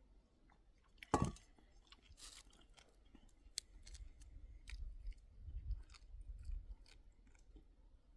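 A sharp knock about a second in, then scattered crunching clicks and crackles over an uneven low rumble.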